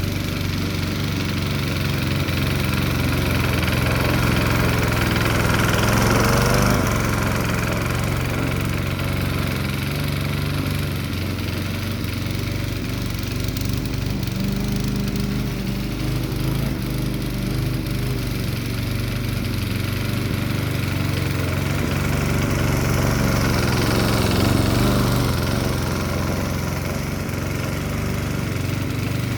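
Briggs & Stratton single-cylinder engine of a Mountfield rotary lawn mower running steadily while mowing, getting louder twice as it comes nearer. It is running short of full throttle, which it won't hold.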